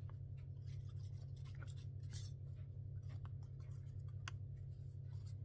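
Faint scratching and rubbing of paper being glued and pressed down by hand, with a few small clicks and a short rustle a little after two seconds, over a steady low hum.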